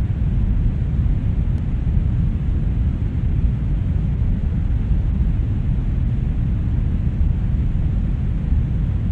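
Steady brown noise: an even, deep rushing hiss with most of its weight in the low rumble and little treble.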